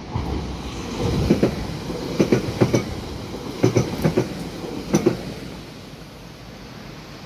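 ÖBB Cityjet (Siemens Desiro ML) electric multiple unit passing close by, its wheels clacking in quick pairs over rail joints half a dozen times. The rush of the passing train fades out about six seconds in.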